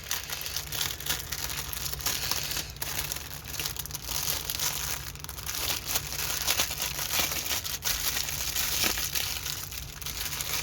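Plastic packaging of a diamond painting kit crinkling and rustling as it is handled, with many small crackles throughout.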